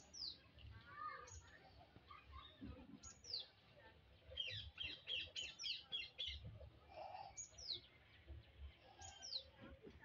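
Small birds chirping faintly: a short, high call that slides downward repeats every second or two, with a quick run of chirps about halfway through.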